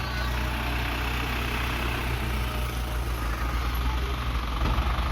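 Heavy diesel engine of earthmoving machinery running steadily at low speed, a deep even hum with no revving.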